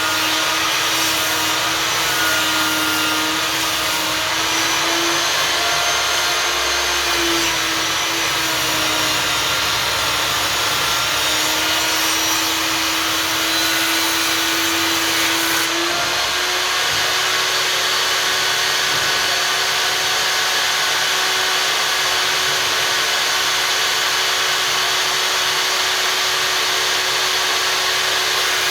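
Einhell table saw running, its blade cutting a thick board with the pitch wavering and sagging under load. A little past halfway the sound settles into a steadier, slightly higher tone.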